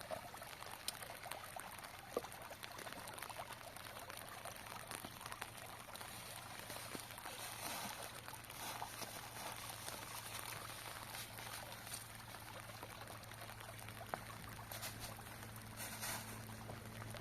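Water trickling steadily, with scattered light clicks and a faint low hum underneath.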